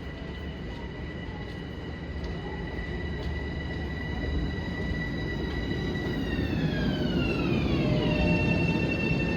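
Long Island Rail Road electric train's motor whine, a high multi-tone hum that holds steady, then slides down in pitch over about two seconds near the end, over a rumble of wheels on rail that grows louder.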